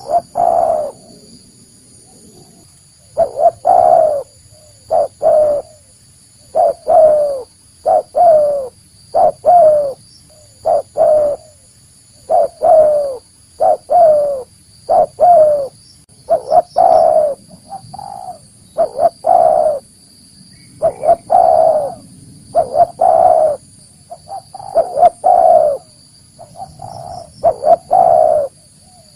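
Spotted dove cooing over and over: short, low, hollow notes that dip in pitch, in clusters of one to three about once a second with brief pauses between phrases. A faint steady high-pitched whine runs behind the calls.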